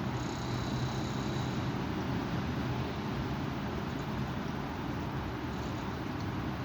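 Strong wind blowing, a steady deep rush of noise. A faint high-pitched tone sounds briefly in the first second or so.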